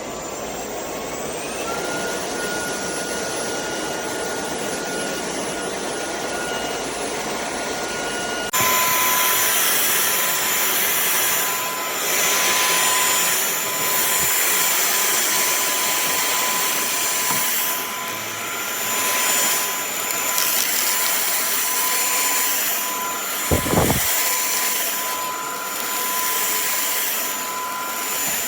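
KCLASO cordless stick vacuum running with a steady motor whine. About eight seconds in the sound abruptly jumps louder and the whine changes pitch, as happens when the power setting is raised, then it swells and eases as it works, with a brief low bump near the end.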